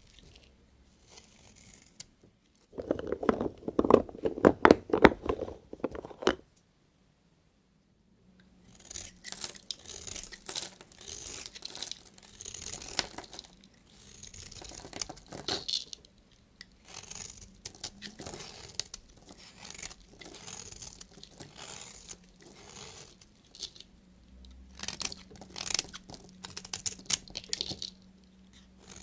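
A knife cutting into bars of soap. About three seconds in comes a few seconds of dense, crunchy cracking. After a short gap there is a long run of short, crisp scraping strokes.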